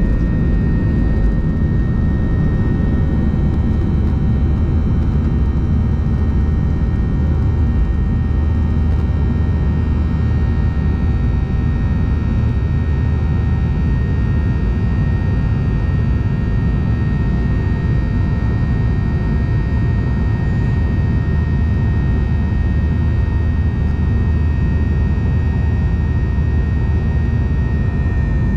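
Jet airliner cabin noise inside a Boeing 737-900ER: the CFM56-7B engines and airflow make a steady low rumble with a constant high whine over it.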